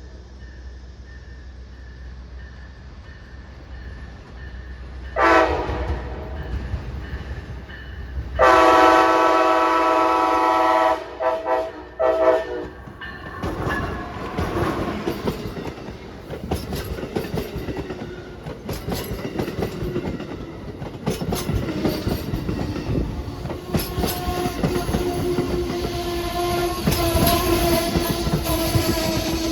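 Train air horn sounding a short blast, then a long blast and two short ones, as the train approaches. The train then passes close by with a rumble and the wheels clicking over the rail joints.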